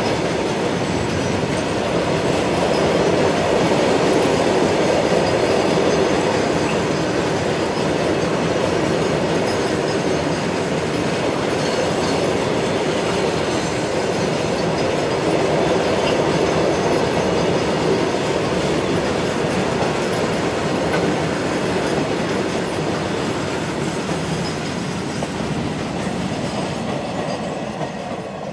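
Freight train rolling past, the steady noise of its wagons' wheels running over the rails, easing off a little near the end.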